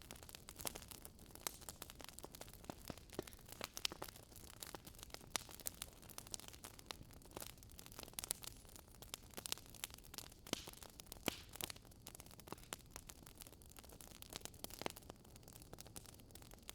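Firewood burning in a fireplace, crackling: irregular sharp pops and snaps, a few each second, over a faint steady hiss.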